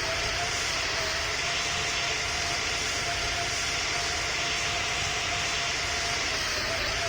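Airbus A220 jet engines running steadily: an even rushing noise with a faint steady whine through it.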